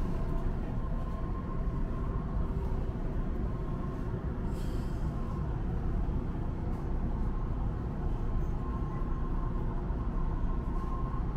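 Hakone Tozan Railway train heard from inside the front car, running slowly into the station: a steady low rumble of wheels on rail with a faint steady whine, and a brief soft hiss about four and a half seconds in.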